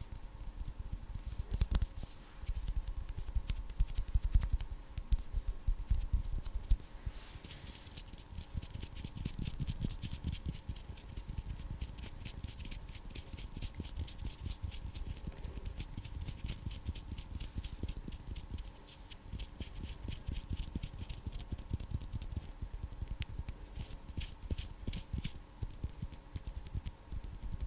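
Bare hands rubbing, tapping and fluttering close to a microphone: a continuous run of quick soft rustles and taps, with brief brighter flurries now and then.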